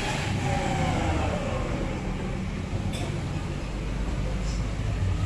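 A motor vehicle running, a steady rumble with road or ambient noise, a falling whine in the first second or so and a sharp click about three seconds in.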